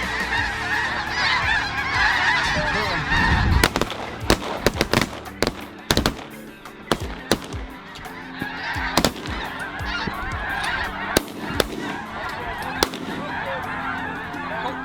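A flock of geese honking overhead, then a rapid volley of about a dozen shotgun shots as hunters fire into the flock. The geese keep calling between and after the shots.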